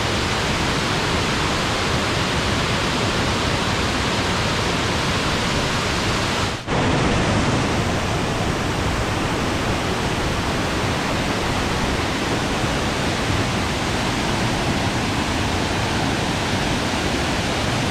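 Waterfall crashing into its pool at close range, a loud steady rushing roar, with a momentary drop-out about seven seconds in.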